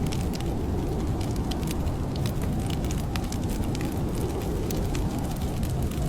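A wood fire crackling, with many scattered sharp pops and snaps, over a steady low rumble of blizzard wind.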